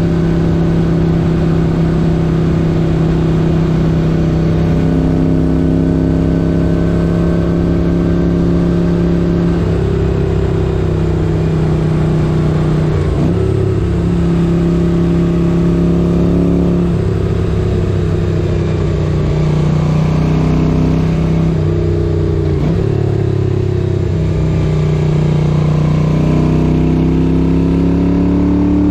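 1978 Moto Guzzi 850 Le Mans's air-cooled V-twin engine running under way. Its pitch breaks and settles several times as the throttle and gears change, then rises steadily near the end as it accelerates.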